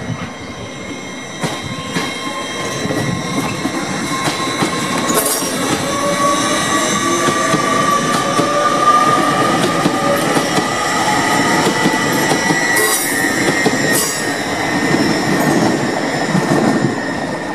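Passenger trains passing at speed, including Hull Trains Class 802 unit 802302: a steady rumble of wheels on rail with high squealing tones, one slowly rising in pitch, and a few sharp clicks over the points.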